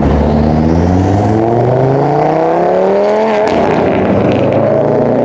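A car engine accelerating hard, its pitch climbing for about three seconds, then dropping sharply about three and a half seconds in as it shifts up, then pulling on at a steadier pitch.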